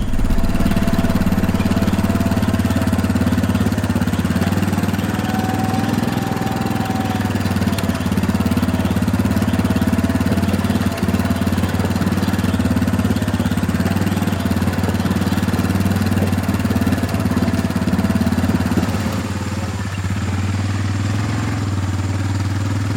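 An engine running steadily with a low, even hum, easing slightly in level about 19 seconds in.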